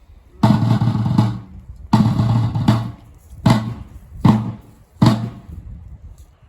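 A drum struck in a slow, even cadence: single deep beats about a second apart, with two short rolls early on, each beat dying away quickly.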